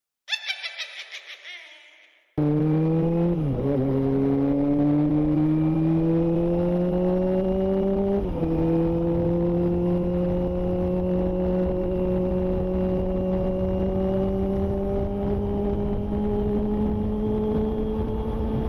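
A short pulsing chime fades out, then a Kawasaki ZX-25R's inline-four engine, fitted with a Yoshimura Alpha exhaust, cuts in abruptly about two seconds in as the bike is ridden. Its pitch climbs slowly and drops sharply twice, about three and eight seconds in, as it shifts up through the gears.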